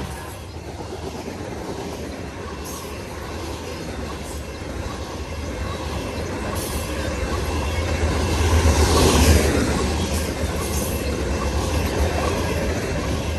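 A CN grain/intermodal freight train led by GE Evolution-series (GEVO) diesel locomotives rolling past: a steady rumble of engines and steel wheels on the rails, loudest about nine seconds in.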